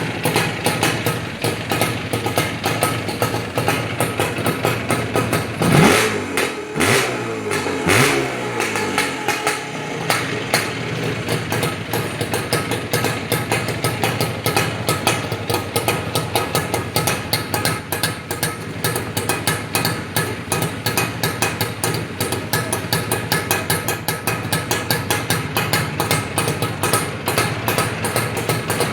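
Izh Jupiter 5 motorcycle's two-cylinder two-stroke engine idling, blipped twice about six and eight seconds in, the revs rising sharply and dropping back to a steady idle.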